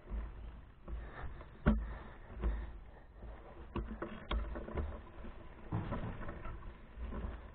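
Wind buffeting a handlebar-mounted GoPro while the bicycle rides along, with a low uneven rumble and scattered knocks and rattles from the bike, the loudest knock about two seconds in.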